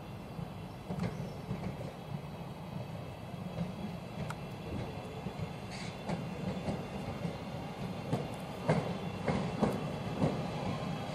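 Train passing, with a steady low rumble and its wheels clicking over the rail joints; the clicks grow louder and more frequent in the second half.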